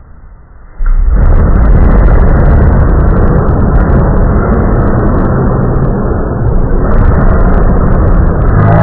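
Thunder from a nearby lightning strike: a sudden very loud crack about a second in, then a heavy, distorted rumble that keeps going without fading.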